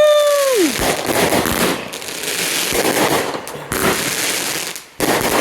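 Consumer firework going off, a continuous dense crackling and popping that rises and falls. A short falling "Woo!" shout comes right at the start.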